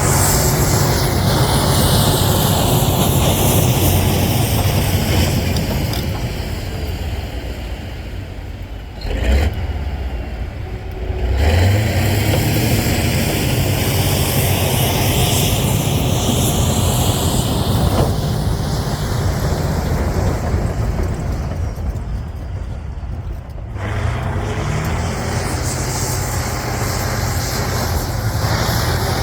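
Cat D9L bulldozer's diesel engine working under load with a steady drone. It eases off twice, about a third of the way in and again past two-thirds, then picks back up with a rising pitch.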